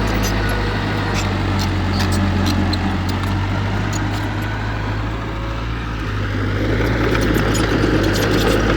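Heavy earthmoving diesel engine running with a steady low hum, scattered clicks over it, and a swell in level about two thirds of the way through.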